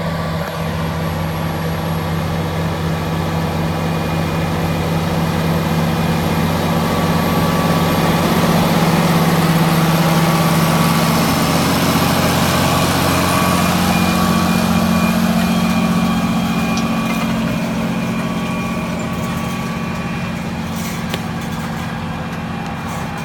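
Large tractor's diesel engine running steadily under load while tilling a field, growing louder to a peak about halfway through and then fading as it moves away.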